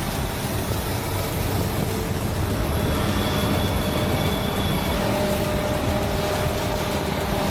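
Heavy farm machinery running steadily, a constant dense engine drone with a few faint steady whines.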